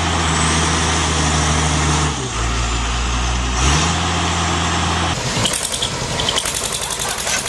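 Heavy machine's engine running steadily, its pitch dropping about two seconds in and rising back near four seconds. After about five seconds a different engine sound takes over, with a fast, even rattle.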